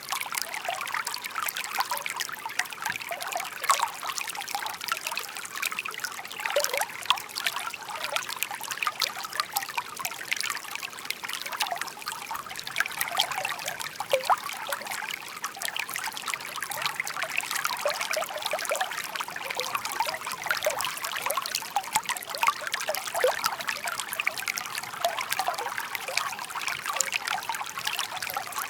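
Shallow brook burbling over stones: a steady trickling and babbling of small water with many tiny irregular splashes, mostly in the mid and high range.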